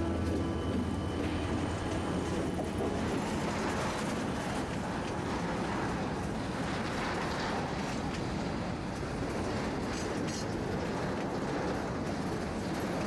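Freight train passing: the low drone of a diesel locomotive's engine fades in the first second or two, followed by the steady rumble and rattle of wagons rolling over the rails.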